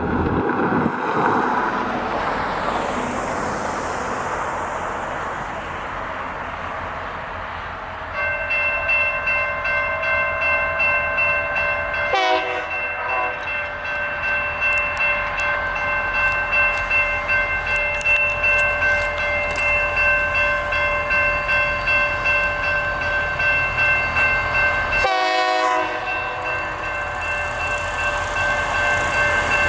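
Freight locomotive horn blowing a chord in long blasts as the train nears a grade crossing: the first starts about a quarter of the way in and breaks off briefly, the second runs on for over ten seconds, and another begins near the end. Before the horn, a road vehicle passes the crossing.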